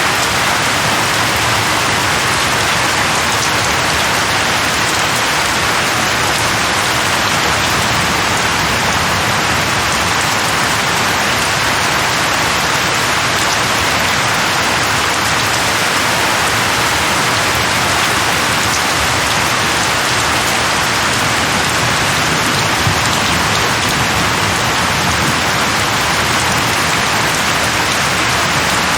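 Steady rain falling, a constant even hiss with no breaks or thunder.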